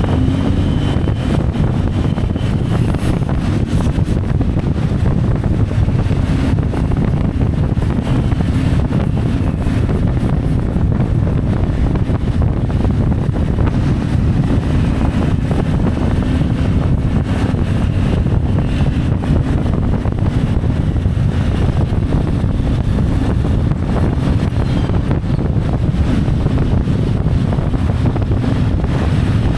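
CFMoto 450MT's parallel-twin engine running steadily under way, with wind rushing over the microphone.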